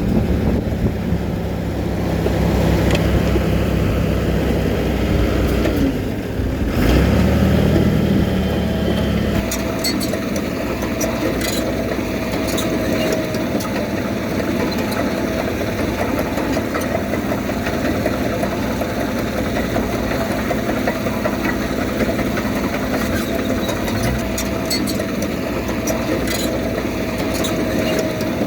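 Heavy diesel engine of earthmoving machinery running, deep and heavy for the first several seconds, then settling into a steadier run with a thin whine and a few short clicks.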